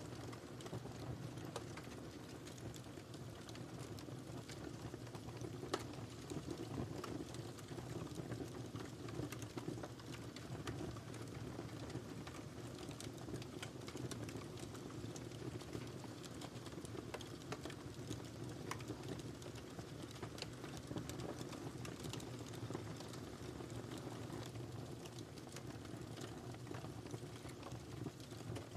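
Wood fire burning in a fireplace, a steady low rush of flames with frequent small crackles and pops, one sharper pop a little under six seconds in.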